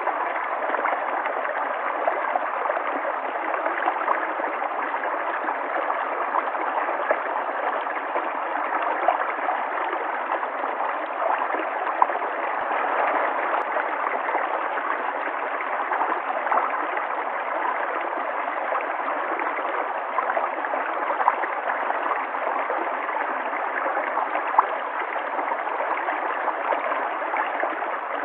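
River water flowing and gurgling steadily, with small splashes and bubbling flicks scattered through it.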